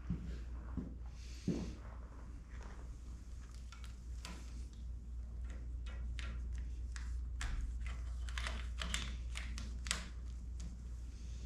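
Scattered light clicks and rattles of small parts and wiring being handled, with a thump about a second and a half in. A steady low hum lies underneath.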